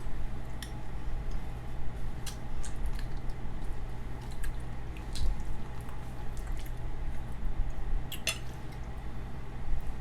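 Close-miked eating: soft, wet chewing and squishing of food, with a few sharp clicks of cutlery against dishes, the loudest about eight seconds in. A steady low hum runs underneath.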